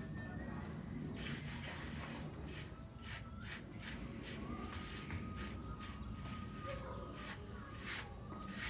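Rhythmic rubbing or scraping strokes of a hand tool on a hard surface, about two strokes a second, uneven in spacing.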